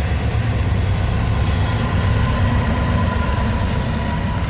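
Freight train cars rolling past close by: a steady, heavy rumble of wheels on rail, with a faint thin whine running above it.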